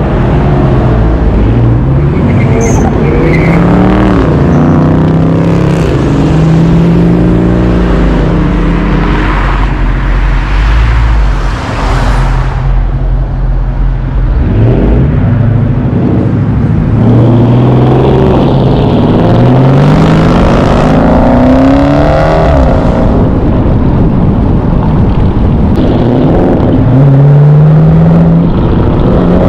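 V8 muscle-car engines revving hard over and over, the pitch climbing and dropping again and again, with a short lull about twelve seconds in.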